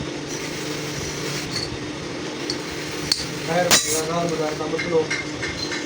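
A few sharp metal clinks and knocks from hand tools on clutch-plate parts, over a steady workshop hum.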